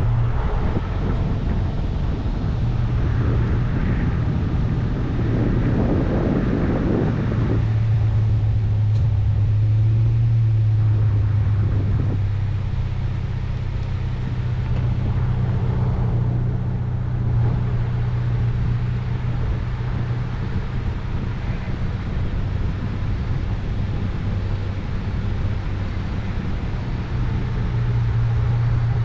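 Steady drone of a vehicle heard from inside while it drives: a constant low engine hum with road noise. A louder rushing stretch comes a few seconds in.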